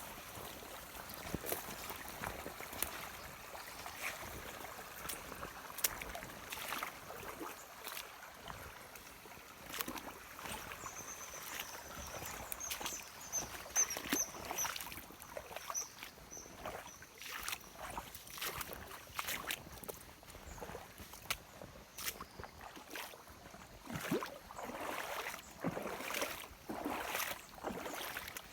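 Water sloshing and trickling, with many scattered light knocks and clicks and a few swelling surges of noise near the end.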